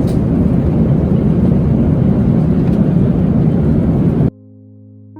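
Loud, steady rumbling rush of jet airliner noise heard inside the cabin. It cuts off suddenly about four seconds in, and soft music follows.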